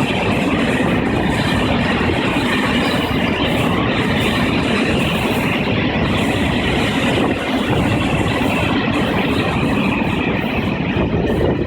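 Taiwan Railway Tze-Chiang express train passing through the station at speed: a loud, steady rush of wheel and rail noise with a heavy low rumble, which then drops off sharply.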